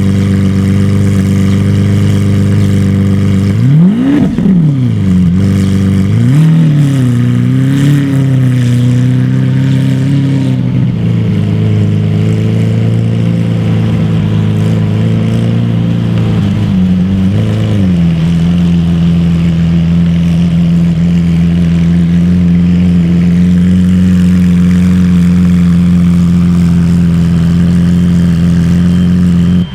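Lamborghini supercar engine idling, revved sharply once about four seconds in, given a few smaller wavering revs soon after and a short blip later, then settling back to a steady idle.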